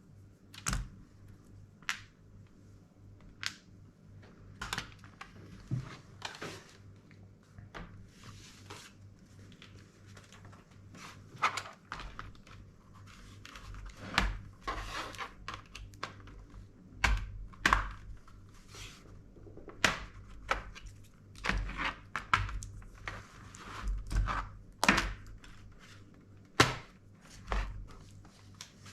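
Irregular clicks, taps and knocks of small hard parts and tools being handled and set down on a desk during laptop disassembly, some with a dull thump, coming more often in the second half.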